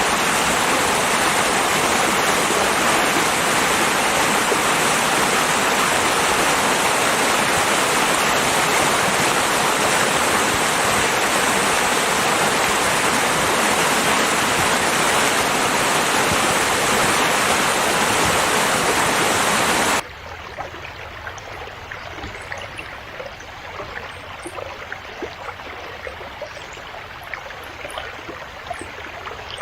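Flowing river water: a steady, loud rush that cuts off suddenly about two-thirds of the way through and gives way to a quieter trickling stream with small splashes.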